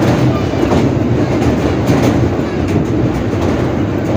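Passenger train coaches running over a steel truss bridge, heard close from an open coach door: a loud, steady rumble of wheels on rails with irregular metallic clatter.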